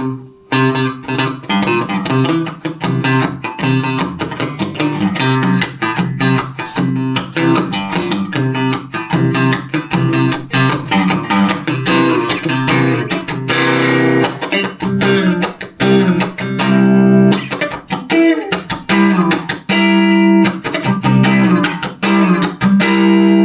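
Electric guitar, a Van Zandt Telecaster through a Roland JC-120 amp, playing an instrumental piece with many quick plucked notes over sustained low notes.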